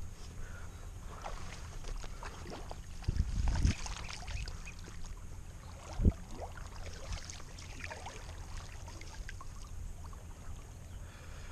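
River water splashing and sloshing with a few handling knocks over a steady low rumble, the loudest knocks about three seconds in and again around six seconds.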